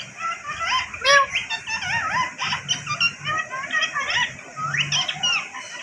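A parrot chattering in a rapid, unbroken string of short whistles and chirps that swoop up and down in pitch.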